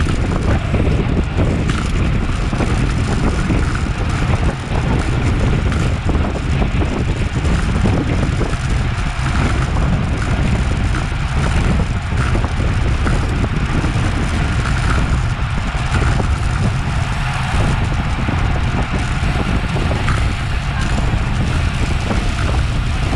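Wind rushing over an action camera's microphone on a bicycle ridden at race speed, a steady low rumble.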